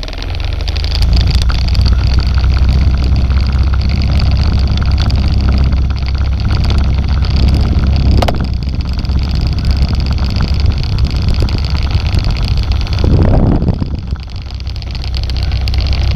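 A motor running steadily and loudly, with a low hum. It starts abruptly and changes briefly about thirteen seconds in before settling back.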